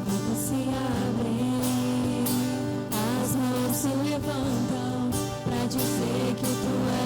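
Live worship music: a band with acoustic guitar strumming and a singing voice carrying the melody over a steady beat.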